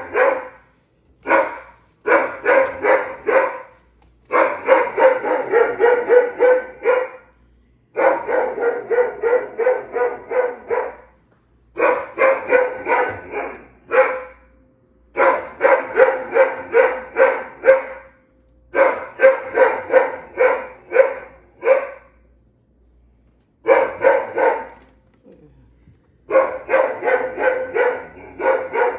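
A dog barking hard and repeatedly, in runs of about three barks a second that last two to three seconds each, with short pauses between runs.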